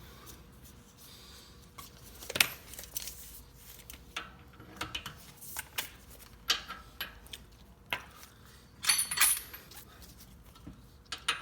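Metal hand tools and sockets clinking and clanking as they are handled, at irregular moments, with a sharp clank a couple of seconds in and a quick cluster of clinks later on.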